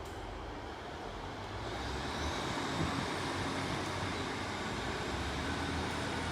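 Diesel passenger train pulling away from the platform, its engine noise building about two seconds in, with a faint rising whine.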